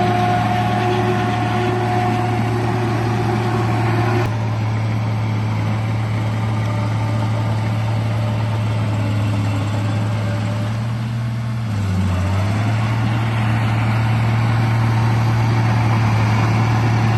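RC bulldozer running with a steady, engine-like low drone. A higher steady whine over it stops with a click about four seconds in, and the drone dips briefly in pitch about twelve seconds in before settling back.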